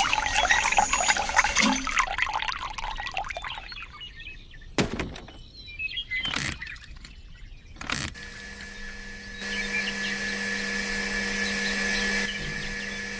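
Water splashing and pouring for the first few seconds, then three sharp clicks, then a steady hum with a held tone from about eight seconds in.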